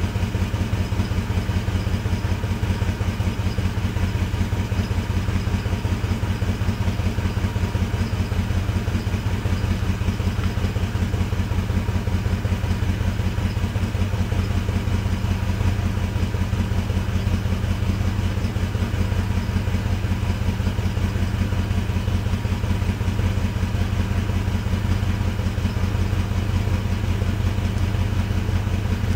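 A 1985 Ford Mustang GT's 5.0-litre V8 idling steadily through its stock exhaust, with an even, slow rumble as it warms up from a cold start.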